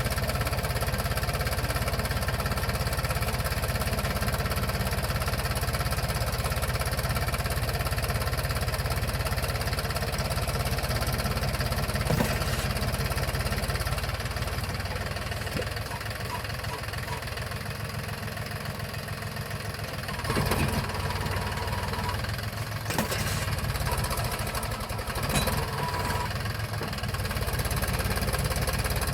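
Mahindra tractor's diesel engine running steadily, dropping in level for a stretch past the middle, with a few sharp knocks.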